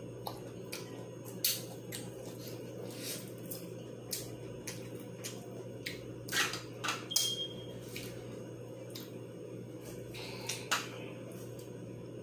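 Close-up eating of crispy fried chicken wings: chewing with a few short, sharp crunches of the fried skin scattered through, over a steady low hum.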